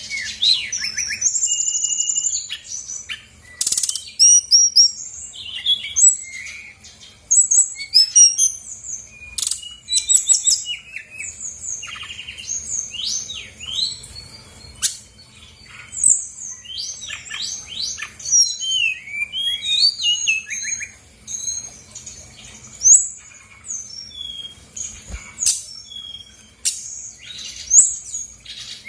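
Brown-chested jungle flycatcher (sikatan rimba dada coklat) singing a fast, varied song of chirps, whistled glides and rapid trills with short pauses, packed with phrases borrowed from other birds, over a faint steady hum.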